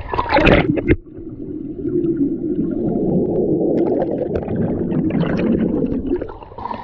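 A splash as a snorkeler goes into the seawater. Then about five seconds of muffled rumbling and gurgling with the microphone under water, easing off near the end.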